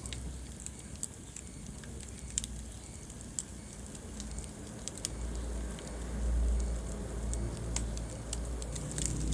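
Wood fire in a fireplace crackling, with irregular sharp pops and snaps over a low rumble of burning. The rumble swells from about five seconds in.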